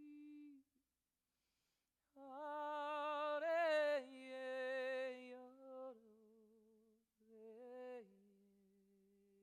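A woman's voice singing alone and without words, a slow lament. A held note breaks off, and after a short pause come long notes with vibrato that step downward, ending on a low, quiet held note that fades.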